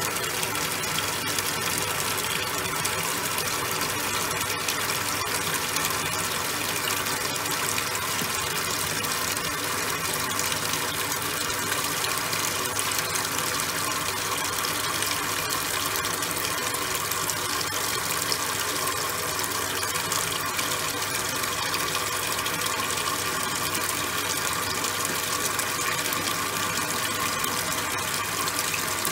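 Top-loading washing machine with a steady gush of water pouring into its tub as it fills for the wash.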